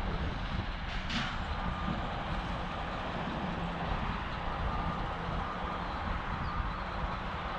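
Heavy truck's diesel engine running steadily at idle, with a short hiss about a second in.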